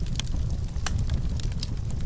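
Wood fire burning in a fireplace: a steady low rumble of flames with irregular sharp crackles and pops, about five of them.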